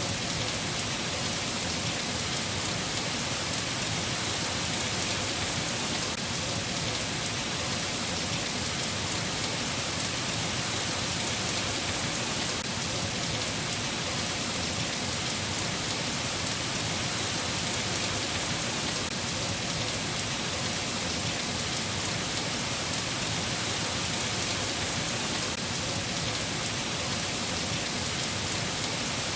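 Steady rain falling: an even, constant hiss with no thunder and no change in strength.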